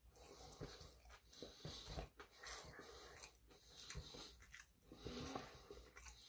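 Faint close-up chewing and mouth sounds of a person eating, with a few soft clicks over a steady hiss.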